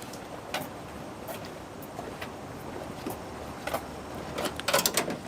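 A few scattered clicks and knocks over steady background noise, with a quick cluster of louder knocks near the end.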